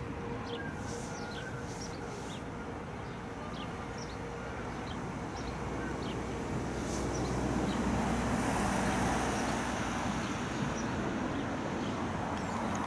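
Trains running across a railway bridge: a steady rumble of wheels on the rails that grows louder in the second half, with short bird chirps in the first half.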